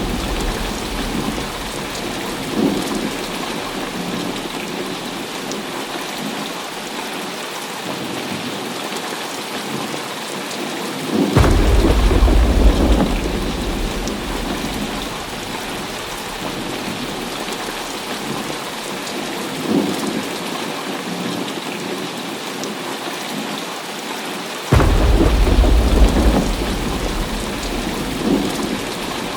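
Heavy rain pouring steadily, with thunder breaking in twice, about eleven seconds in and again near the end. Each is a sudden deep rumble that rolls on for a few seconds and fades.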